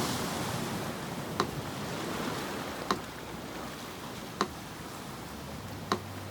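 Sea surf washing steadily, with a slow metronome clicking evenly about once every second and a half, five clicks in all.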